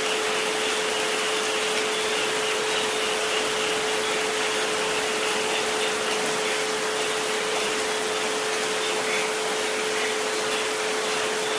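Steady recorded rain hiss with a continuous pure tone of about 432 Hz held underneath, and a fainter second tone just above it.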